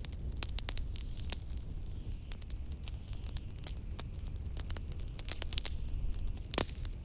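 Wood fire crackling in a fireplace, with frequent sharp pops, the loudest about six and a half seconds in, over a steady low rumble of blizzard wind.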